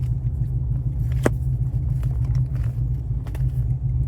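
Steady low rumble of a car engine idling, with faint light ticks and one short sharp click about a second in.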